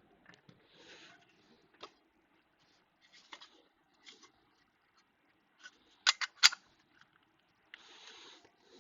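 Scattered light clicks and soft rustling from small hands-on work, with a quick run of three or four sharp clicks about six seconds in.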